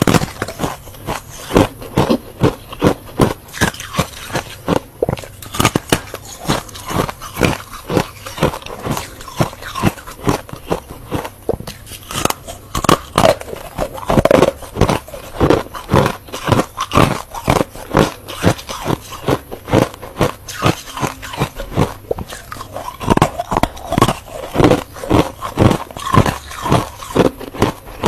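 Close-up crunching of freezer frost being bitten and chewed, loud sharp crunches coming several times a second throughout.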